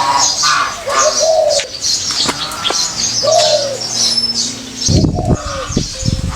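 Small birds chirping, and a dove giving two low cooing calls that rise and fall, with a few heavy low thumps near the end.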